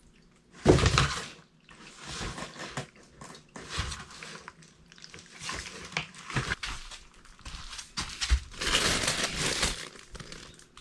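Irregular rustling and scuffling with a few knocks, in uneven bursts, loudest about a second in and again near the end.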